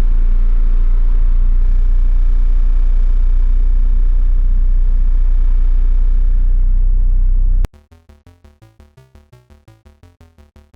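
Diesel Toyota Land Cruiser 70 driving, its engine a loud steady low drone. About three-quarters of the way through it cuts off abruptly, and quiet music with a regular pulse takes over.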